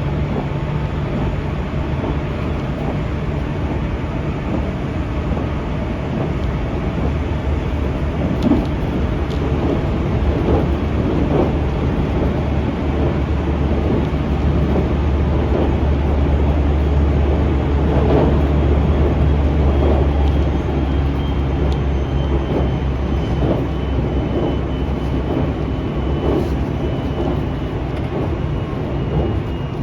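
Limited express Fujikawa train running, heard from inside the passenger car: a steady low rumble with occasional brief clicks from the wheels over the rails. It grows a little louder through the middle, and a faint high whine comes in during the second half.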